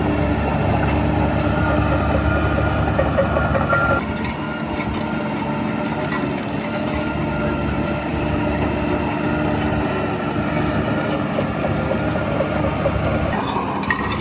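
Heavy diesel engine of earthmoving machinery running steadily. It eases to a lower, steady level about four seconds in.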